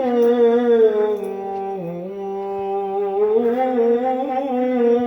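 A man's voice singing a long, drawn-out melismatic note in Arabic vocal style, wavering with vibrato, dipping lower about two seconds in and climbing again near the end.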